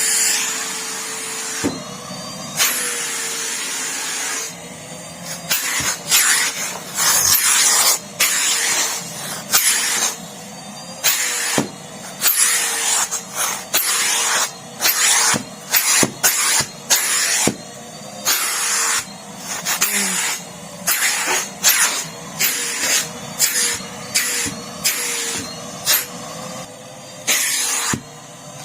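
Numatic Henry vacuum cleaner running with a steady motor hum while sucking up spilled salt. Its hissing rush surges and drops about once a second as the floor nozzle is worked back and forth.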